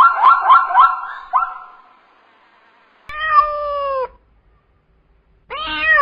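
A domestic cat meowing: two long meows, the first falling in pitch toward its end. They follow a quick run of short, repeated animal calls, about three or four a second, that stop after a second and a half.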